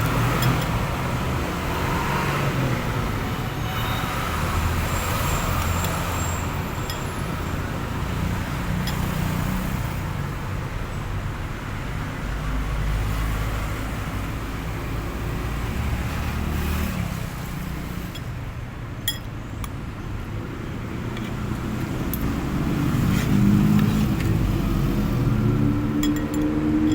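Road traffic going by in a steady rumble. Near the end an engine's pitch rises as a vehicle speeds up.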